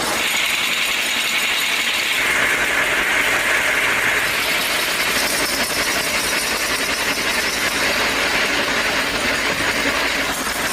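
Plastic rope-making machinery running with a steady, loud mechanical whir and hiss that shifts slightly lower about two seconds in.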